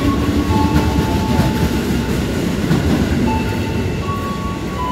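KRL Commuterline electric train, a former JR 205 series, rolling past the platform. There is a steady low rumble from the carriages, with several thin whining tones that step up and down in pitch.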